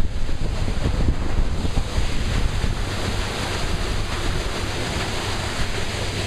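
Wind buffeting the microphone on a moving paddlewheel boat, over a steady rush of water and a low steady hum.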